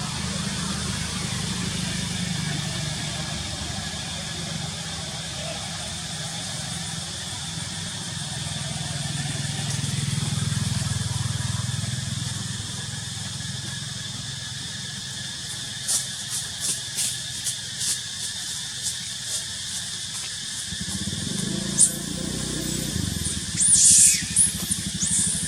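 Steady outdoor background with a low rumble and a high hiss; past the middle, a quick run of sharp clicks, then near the end a few loud high-pitched squeals, one gliding down in pitch: a monkey screaming.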